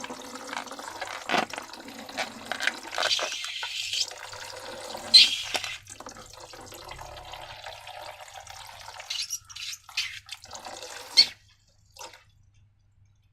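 Liquid being poured and squeezed out, dripping and splashing, with a few sharp clicks. It stops abruptly about eleven seconds in.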